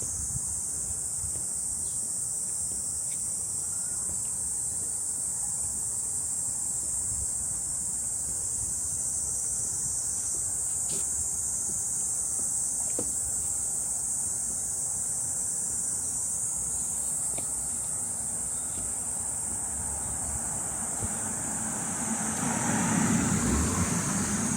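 Summer insects keep up a steady high-pitched drone in the forest. Near the end a louder low rumble swells up, like something passing.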